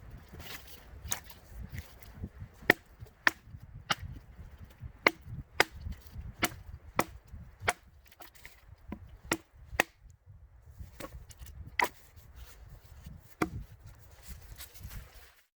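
Pine firewood being chopped with a splitting axe: a rapid run of sharp, dry wooden knocks, about two a second, with a short break about ten seconds in.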